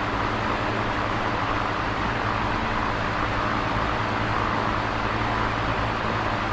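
Electric fan running steadily: a constant whoosh of moving air with a low motor hum underneath.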